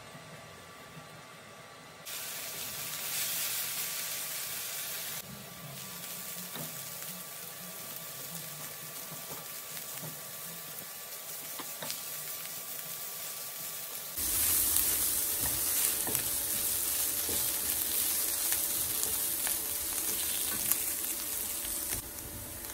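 Chopped onions sizzling as they fry in a non-stick pan, stirred with a silicone spatula that adds small scrapes and ticks. The sizzle starts about two seconds in and steps up louder past the middle, with green chillies now in the pan.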